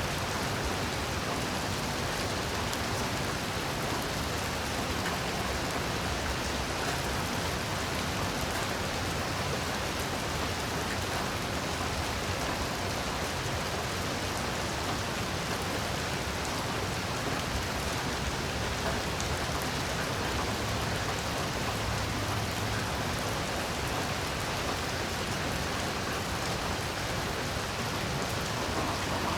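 Heavy rain falling steadily, an even hiss of rain on surfaces with no let-up or thunder.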